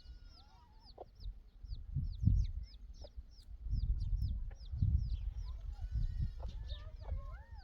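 Chickens: a steady run of short, high, falling peeps, about three a second, with a few lower clucking calls, over a low rumbling noise that comes and goes.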